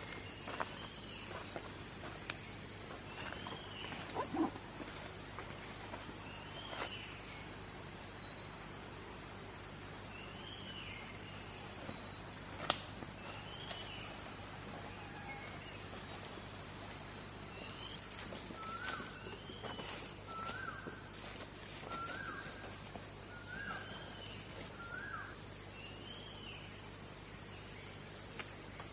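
A steady, high insect chorus that grows louder about eighteen seconds in, with a bird repeating a short chirp every second or two. A second, lower chirp repeats five times in a row later on, and there is a single sharp click near the middle.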